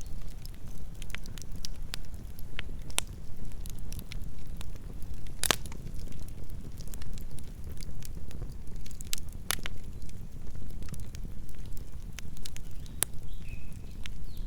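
Campfire burning: a steady low rumble of flames with irregular sharp crackles and pops from the burning wood, one louder pop about five and a half seconds in.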